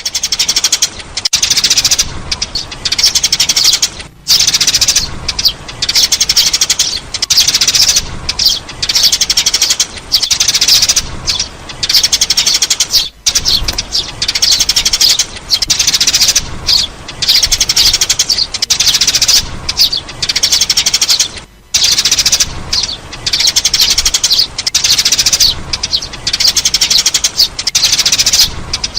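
Sparrow chirping: dense, rapid high chirps that keep on with only a few brief pauses, played as a lure call for attracting sparrows.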